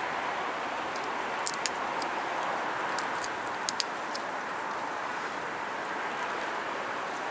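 Small, sharp stone clicks, about ten in a cluster over the first half, from flakes popping off a Rainy Buttes stone preform under pressure flaking. They sit over a steady background hiss.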